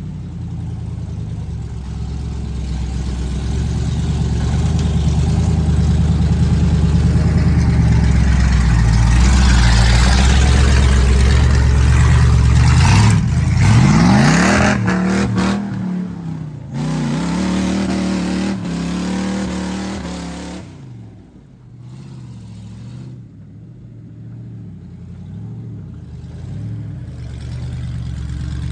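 Old Ford mud truck's engine working through mud: it builds, revs up sharply about halfway through and holds high for several seconds, then drops back to a lower, quieter running for the rest.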